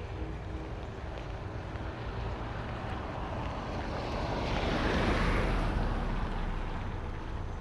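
A car passing on a wet road: tyre hiss builds, peaks about five seconds in, then fades away.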